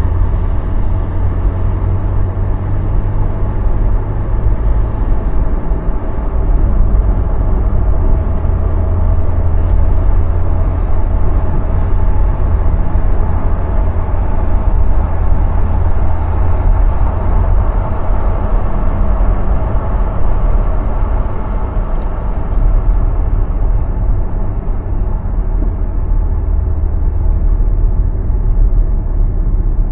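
A car driving on city roads: a steady low rumble of road and tyre noise that holds even throughout.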